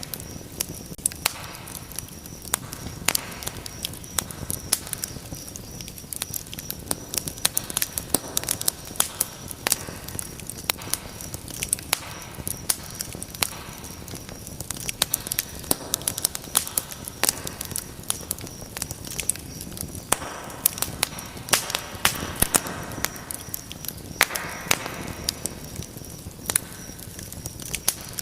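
Wood fire crackling steadily, with many sharp irregular pops and snaps over the soft rush of the flames; the pops come thicker in the second half.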